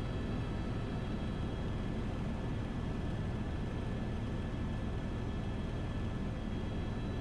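Helicopter in flight: a steady low rumble with a fast pulsing beat from the rotor, over a faint high steady whine.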